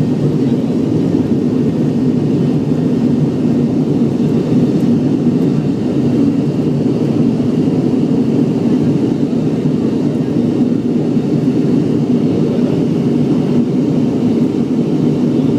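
Steady cabin noise of an MD-80 airliner: the low, even rumble of its rear-mounted Pratt & Whitney JT8D jet engines and airflow, with no change in pitch or level.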